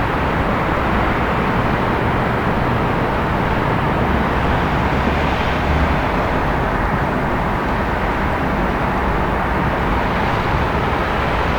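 City night ambience: a steady wash of distant traffic noise, with a slight swell about five to six seconds in, as of a vehicle passing.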